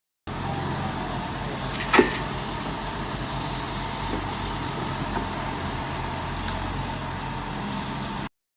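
Radio-controlled model machine running: a steady low motor hum with a faint whine above it, and one sharp click about two seconds in.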